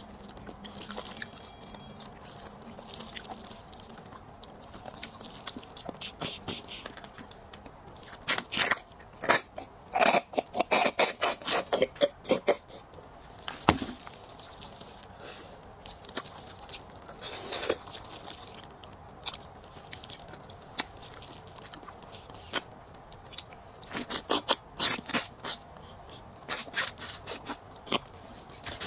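Close-miked eating sounds of someone gnawing meat off braised beef bones: wet chewing and biting that come in bursts of quick crackling clicks, the densest run about ten seconds in and more bursts near the end.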